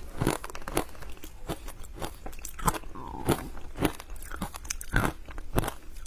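Close-miked bites and chewing of hard ice coated in matcha powder: sharp crunches about twice a second, uneven in strength.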